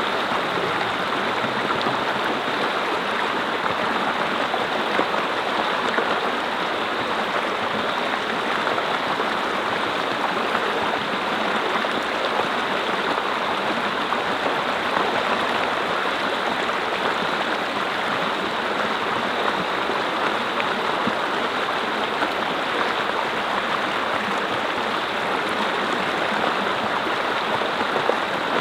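Mountain stream flowing over rocks in a steady, even rush of water.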